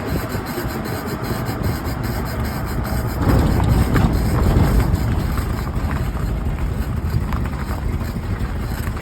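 Suzuki Jimny SJ30 being driven: its small three-cylinder two-stroke engine running, with road and tyre rumble, a little louder about three seconds in. A few faint squeaks can be picked out above the rumble, which the owner traces to a creak in the passenger-side front steering knuckle that quickens with road speed.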